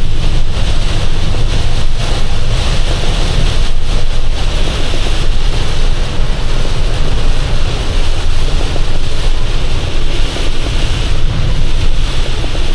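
Box truck driving at highway speed, heard from the cab: a loud, steady low rumble of engine and road noise with wind noise over it.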